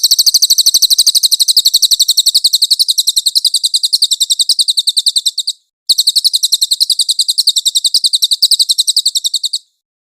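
Cililin bird singing a rapid, high-pitched trill of about ten notes a second, in two long runs split by a brief gap near the middle, stopping abruptly near the end.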